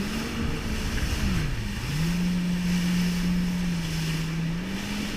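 Jet ski engine running at a steady pitch that drops about a second and a half in and rises again near the end as the throttle changes, with wind on the microphone and water noise.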